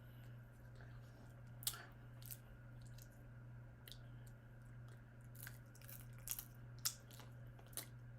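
A person chewing prawns close to the microphone, with scattered sharp crunches and clicks as the shell and small legs are bitten.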